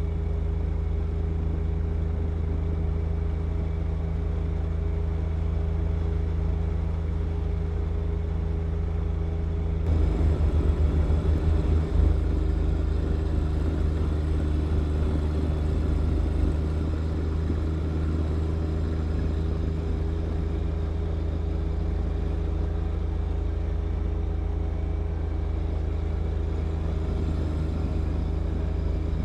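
John Deere 1025R compact tractor's three-cylinder diesel running steadily at working speed while clearing snow. About a third of the way in it briefly grows louder with a low throb for a couple of seconds, then settles back to a steady hum.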